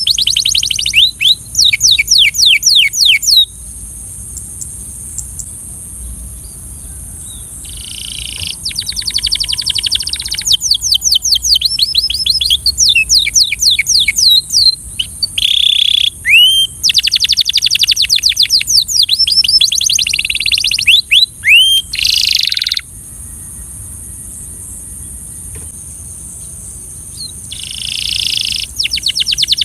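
Belgian canary singing fast trills of rapidly repeated sweeping high notes in long phrases, with pauses about four seconds in and again near three quarters of the way through.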